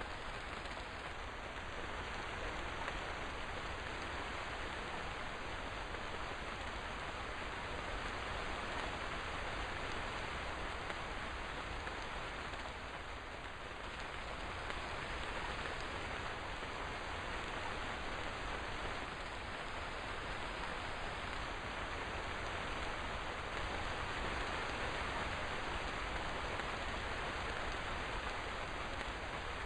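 Steady rain falling, an even rushing hiss with no let-up.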